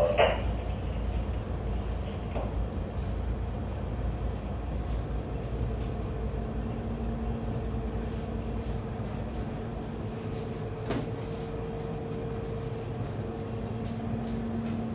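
Boat engine running steadily with a low rumble. A steady hum joins about six and a half seconds in.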